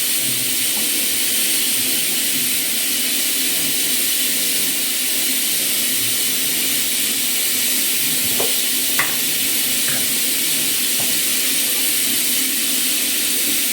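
Chicken pieces deep frying in hot oil, giving a steady sizzle, with a few faint clicks about eight to ten seconds in.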